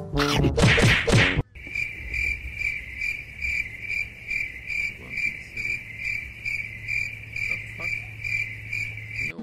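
Cricket-like insect chirping, high and steady, pulsing about twice a second from about a second and a half in. It follows a brief loud burst of other sound.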